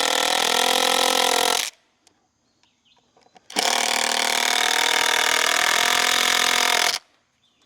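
Power drill driving screws into a timber beam: two long runs of steady whine, the first stopping about a second and a half in, the second starting about two seconds later and running about three and a half seconds.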